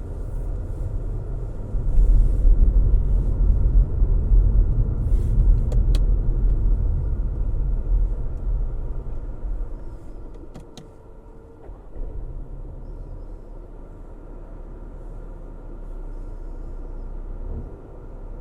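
Car driving on a road: a steady low rumble of tyres and engine, loud through the first half, then dropping to a quieter, steady level about halfway through, with a few faint clicks around the middle.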